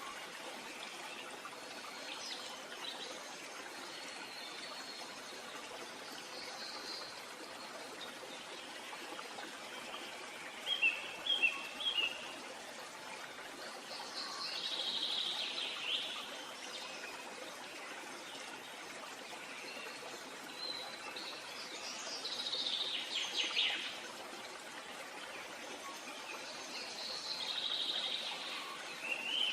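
Wild birds calling now and then over a steady background hiss of outdoor ambience. There is a run of short chirps about a third of the way in, and longer call phrases around the middle and near the end.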